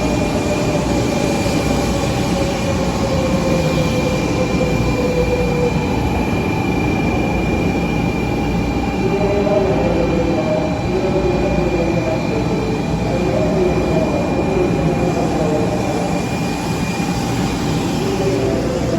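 Electric train running at a station platform, a steady rumble with a motor whine that falls in pitch over the first several seconds and a thin high tone that stops near the end.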